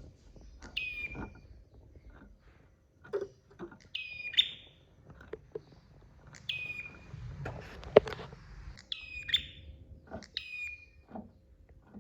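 Prinia (prenjak) calling: five short, sharp calls a second or two apart, each dropping quickly in pitch. Scattered clicks and knocks sound underneath, the loudest a sharp click about eight seconds in.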